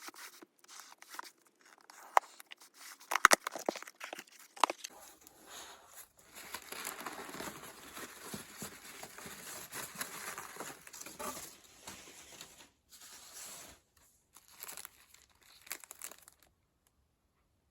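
Packaging crinkling and rustling as it is handled and pulled open, with a few sharp knocks in the first few seconds and a long stretch of steady rustling in the middle.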